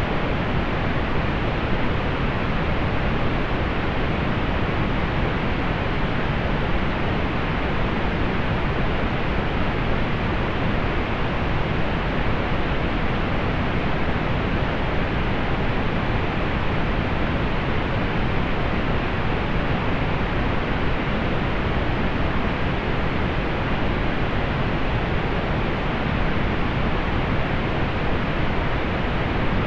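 Steady pink noise: an even, unchanging hiss, fuller in the low end, rolled off in the highs.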